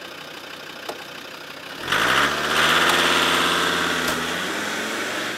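Land Rover Defender engine starting about two seconds in and pulling away, the engine note climbing as it catches, then slowly fading as the vehicle drives off. A short click about a second in.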